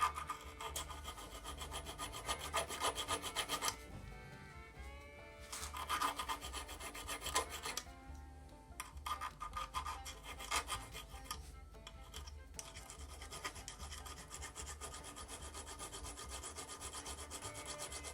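Filing metal by hand: steady rasping strokes on a small steel retainer plate from a motorcycle engine, in runs broken by short pauses.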